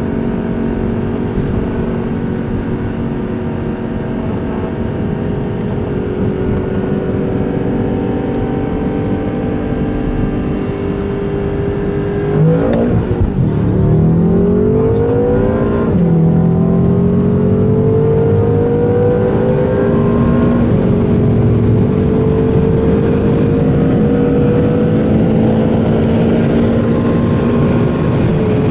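Twin-turbo V8 of a BMW M5 F10 heard from inside its cabin: a steady, even-pitched cruise, then a sudden switch to full throttle about twelve seconds in, the pitch climbing through the gears with shifts at about sixteen and twenty seconds in.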